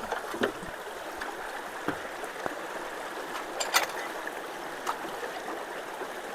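Water rushing steadily through freshly unclogged road culverts, now free and flowing, with a few sharp clicks over it.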